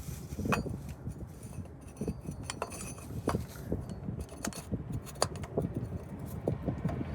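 Scattered light clicks and clinks, a dozen or so sharp ticks spread irregularly, from small hard metal objects being handled.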